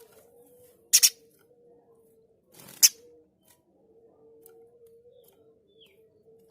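Spiderhunter (pijantung gunung) giving two short, harsh, rasping calls about two seconds apart, over a faint steady hum.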